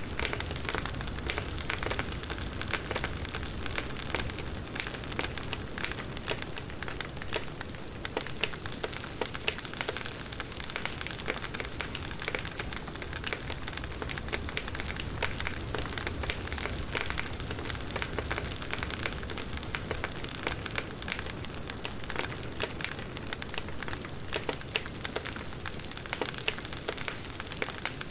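Wood campfire crackling and popping, with dense small snaps over a steady hiss of burning.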